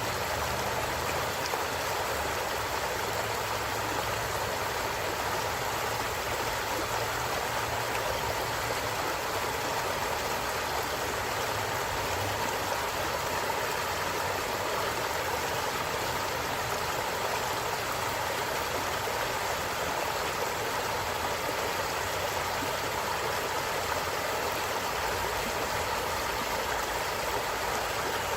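A stream running over rocks: steady rushing and gurgling water.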